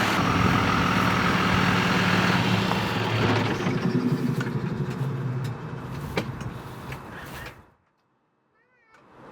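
John Deere tractor's diesel engine running steadily, fading away after about five seconds and cutting to near silence around eight seconds in.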